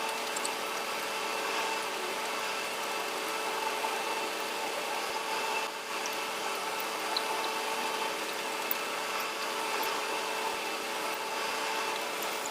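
Steady mechanical whirring hum, like a small motor running, with a brief dip about six seconds in and a few faint clicks.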